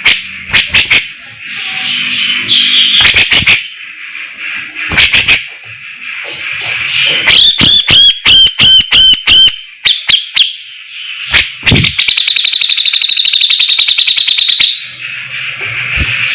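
Cucak jenggot (brown-cheeked bulbul) singing a loud, varied song: sharp clicking notes, a quick run of looping whistled notes about halfway through, then a long rapid trill lasting about three seconds near the end.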